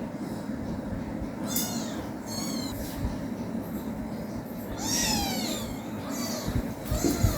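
Young kitten mewing: about five short, high-pitched mews, the loudest and longest a little past the middle.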